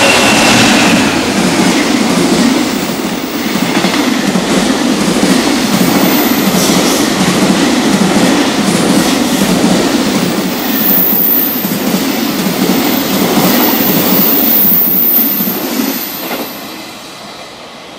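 Electric-hauled container freight train passing at speed, its wheels clattering in a steady rhythm over the rail joints. The noise drops away about sixteen seconds in as the last wagon goes by.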